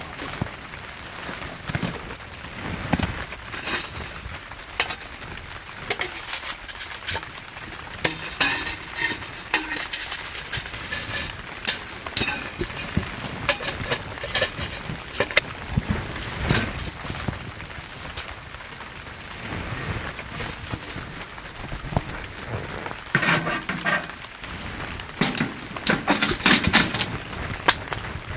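Steady rain falling, with many irregular clicks, taps and rustles throughout, denser about a third of the way in and near the end.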